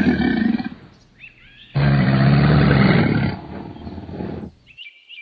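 Crocodile growling twice, low and rough: the first call fades out before a second in, the second starts near two seconds and trails off about halfway through.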